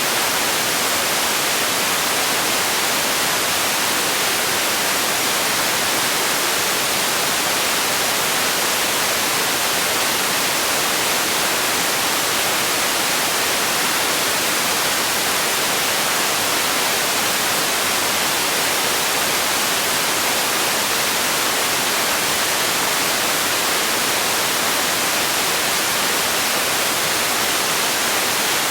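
Steady electronic white noise, an even hiss weighted to the high end with little low rumble, unchanging throughout.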